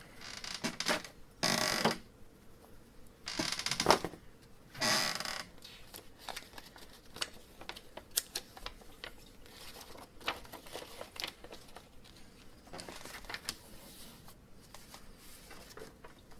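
Paper rustling as the pages of a printed assembly manual are turned: three short rustles in the first five seconds, then light scattered clicks and taps of handling.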